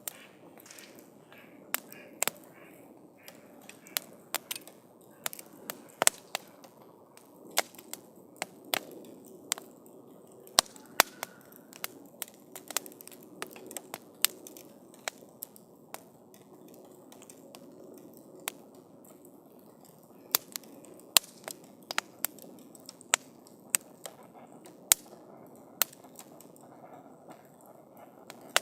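Wood campfire crackling: irregular sharp pops and snaps, bunching to several a second at times, over a soft steady low hiss from the fire.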